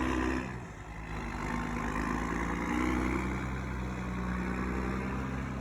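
Cat Challenger tractor's diesel engine pulling under load as it tows a dead truck with locked brakes. The engine note eases off about half a second in, then builds back up over the next two seconds and holds steady, over a broad hiss.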